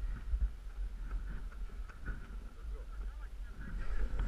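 Wind buffeting the microphone over the hiss and scrape of a rider sliding down a snowy ski slope.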